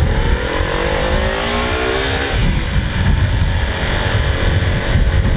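Motorcycle engine accelerating, its pitch rising for about two seconds before settling into a steady run, with wind rumble on the microphone.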